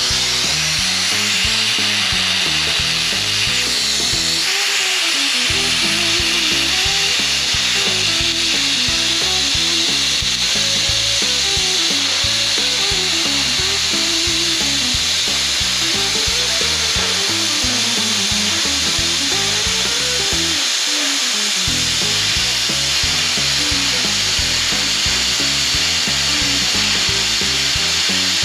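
Plasma cutter cutting steel plate with a steady, loud hiss that starts suddenly just before and runs on without a break. Background music plays underneath.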